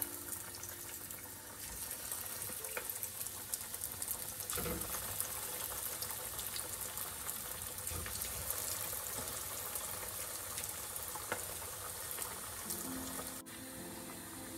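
Breaded chicken cutlets sizzling and crackling steadily as they deep-fry in hot sunflower oil in a pan, with more pieces laid into the oil one by one.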